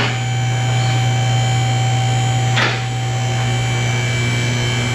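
Electric hydraulic pump motor of a vehicle lift running steadily as it raises the car, with two short rasping noises, one at the start and one about halfway through.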